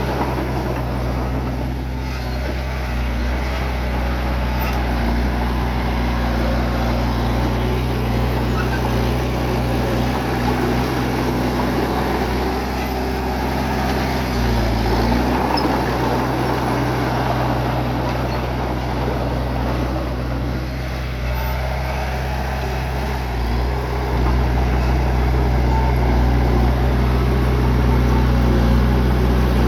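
Bulldozer's diesel engine running steadily as the machine works, a low even drone with a rough mechanical noise over it, getting somewhat louder near the end.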